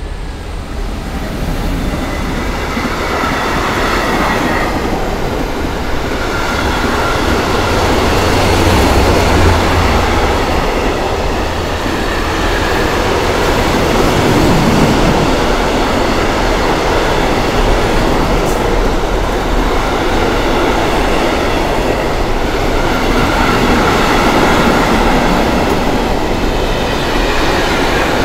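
Container freight train passing close by: wagon wheels rolling over the rails in a loud, steady rumble that builds over the first few seconds and then holds.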